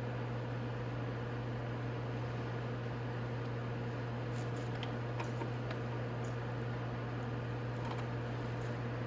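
A steady low hum runs throughout, with a few faint clicks and light knocks a few seconds in and again near the end, consistent with small tools and bolts being handled while motorcycle fairing bolts are removed with an Allen key.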